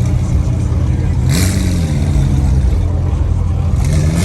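Car engine idling with a steady low note, revved briefly about a second in and again near the end.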